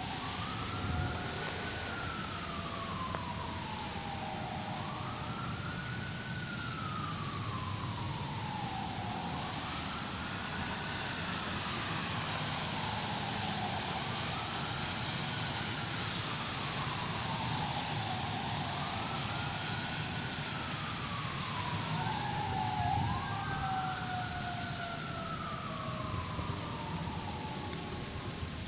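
Emergency vehicle siren wailing in slow rising-and-falling sweeps, about one every four to five seconds, with a second siren tone sliding slowly downward. A steady hiss of rain lies underneath.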